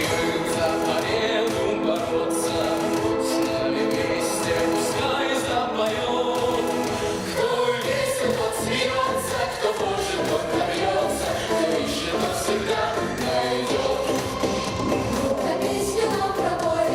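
A children's vocal ensemble singing together as a choir over instrumental accompaniment with a steady beat.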